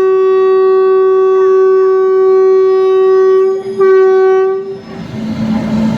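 Train locomotive horn sounding a long, steady single-note blast as the train departs. It breaks off briefly about three and a half seconds in, then gives a second, shorter blast that stops near five seconds. A lower steady hum follows.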